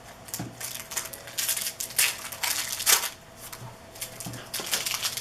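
Trading cards and pack wrappers being handled: a run of rustles and crinkles, loudest about two and three seconds in, over a faint steady hum.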